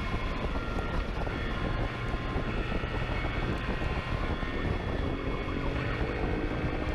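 Police motorcycle engine running at speed, with a steady rush of wind and road noise.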